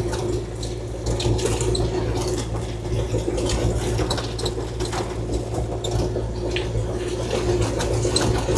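Kubota KX040-4 excavator's diesel engine running steadily, with rock and gravel clattering and sliding as the bucket works it.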